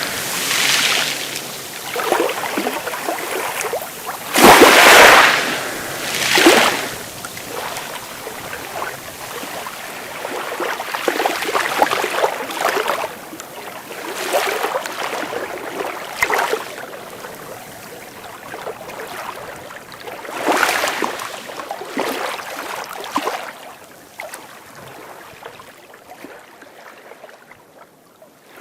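Sea waves breaking and washing in, surging every few seconds. The loudest break comes about four to five seconds in, and the wash dies down near the end.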